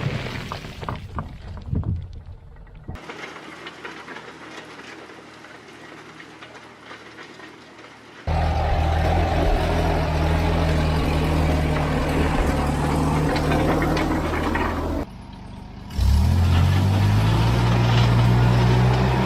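Vintage David Brown 30 tractor engine running steadily at work, heard in separate stretches broken by cuts. In the last few seconds it runs louder, its pitch rising a little and easing back.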